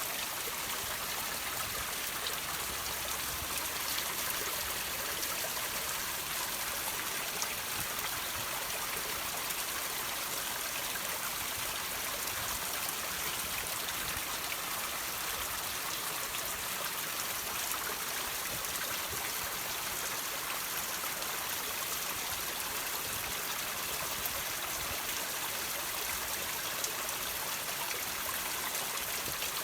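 Water trickling and dripping off rocks: a steady, even splashing hiss with a few scattered single drops.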